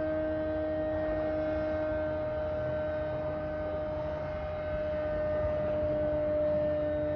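Loud, constant droning hum made of several steady tones, one mid-pitched tone strongest, over a low rumble.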